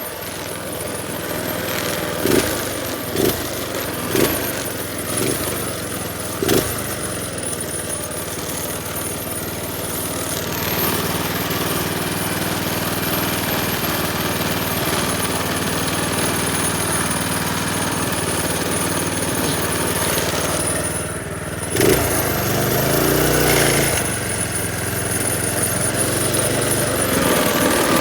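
A minibike's small engine running as it is ridden, with several sharp knocks in the first few seconds and the engine note changing and getting louder briefly a little after twenty seconds.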